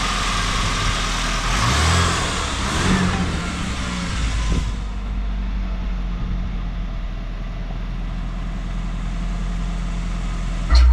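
Car engine running steadily with a low rumble. Higher-pitched noise fades out about halfway through, leaving mostly the low hum.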